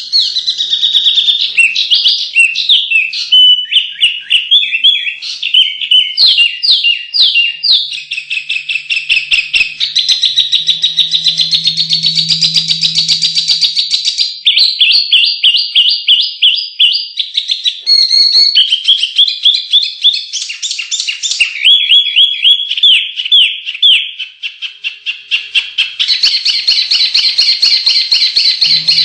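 Small songbirds singing without a break, in rapid high-pitched trills and chattering runs of repeated chirps. The phrase changes every few seconds. It is a 'masteran' tutor recording, played to contest songbirds to get them singing.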